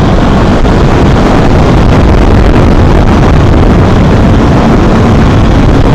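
Loud, steady wind rush on a motorcycle rider's microphone while riding at road speed, with the motorcycle's running mixed in.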